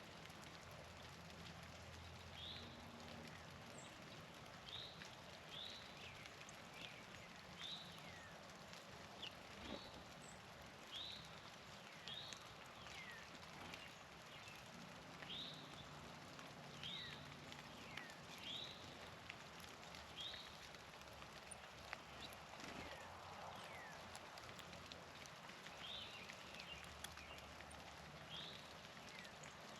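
Faint songbird calls: a short down-slurred note repeated about once a second, with a pause of several seconds past the middle.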